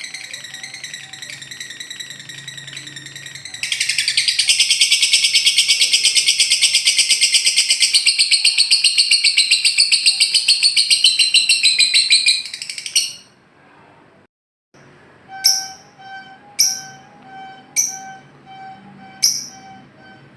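Lovebird's long, very rapid trilling chatter (the 'ngekek') runs loud for about nine seconds after a steadier buzzing trill. After a short break, a run of short, sharp chirps comes about once a second.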